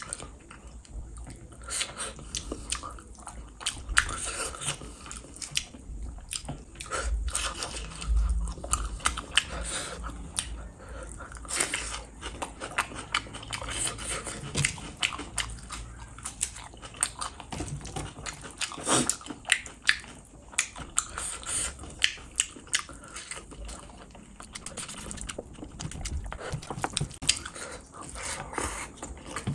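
A person chewing and biting mouthfuls of fish curry and rice, with many sharp, irregular clicks of the mouth and food.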